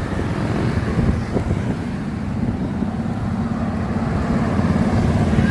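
Car driving at a steady cruise: a steady low engine and road rumble that grows a little louder near the end.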